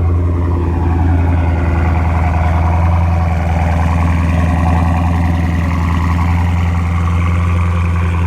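Dodge Charger Scat Pack's 392 HEMI V8 with a muffler delete, idling with a steady, deep exhaust drone.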